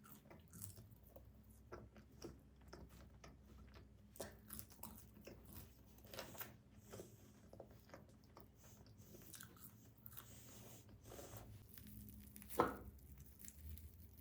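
Close-miked chewing and biting of tomato pizza: faint crunches and mouth clicks, with one louder bite near the end.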